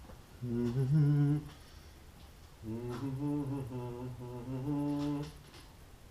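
A man humming a tune under his breath: a short phrase of about a second, a pause, then a longer phrase of about three seconds.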